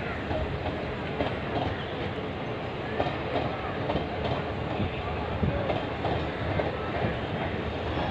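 Locomotive-hauled passenger train running past, its wheels clattering over the rails in a steady stream of clicks.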